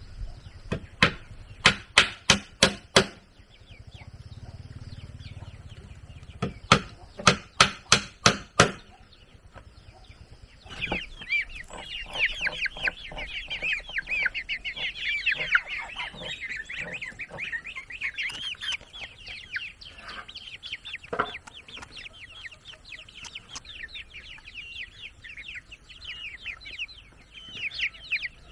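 Two quick runs of about seven sharp knocks each in the first nine seconds. From about eleven seconds in, chickens calling in a dense chatter of high chirps.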